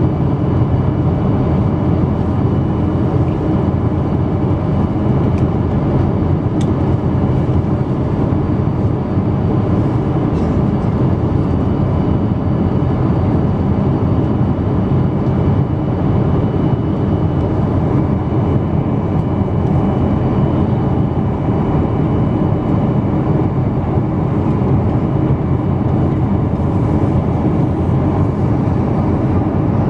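Steady drone of jet engines and rushing air heard inside the passenger cabin of a Boeing 777-200, unchanging throughout, with faint steady high tones over it.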